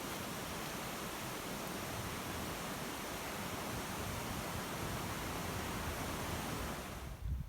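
Steady, even rushing noise with no distinct events, cutting off suddenly near the end.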